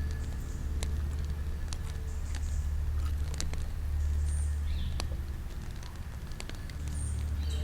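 Campfire crackling, with a handful of sharp pops scattered through it over a steady low rumble.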